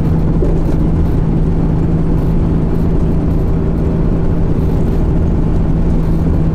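Nissan Skyline R33 GT-R's RB26 straight-six running steadily on the move, its note holding one pitch with no gear change or revving.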